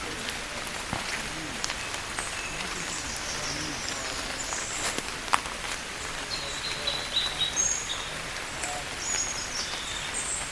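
Marsh ambience: a steady hiss of outdoor noise with short, high bird chirps and calls, more of them from about six seconds in, and a few scattered sharp clicks.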